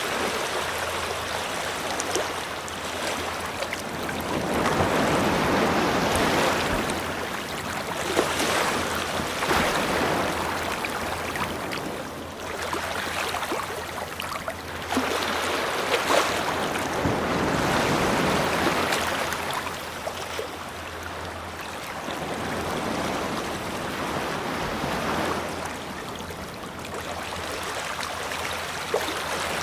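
Ocean waves breaking and washing up a beach, each surge swelling and then drawing back every few seconds.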